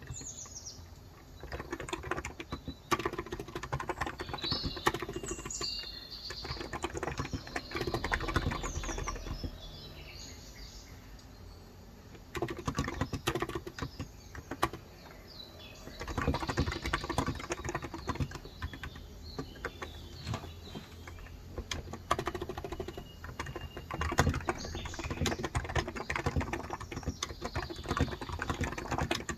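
Fast typing on a Cox Endeavor electrostatic capacitive (contactless) tenkeyless keyboard with 35 g switches, in runs of keystrokes broken by short pauses about ten and fifteen seconds in. Birds chirp in the background, mostly in the first several seconds and again near the end.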